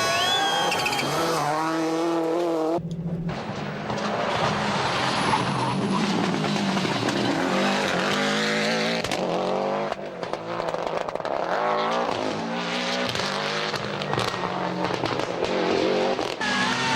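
Subaru Impreza GC8 rally car's flat-four engine revving hard. The pitch climbs and drops again and again as it accelerates, shifts and lifts, with brief dips about three and ten seconds in.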